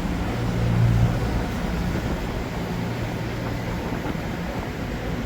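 Low, steady engine hum that fades away over the first three seconds, leaving a steady rushing noise.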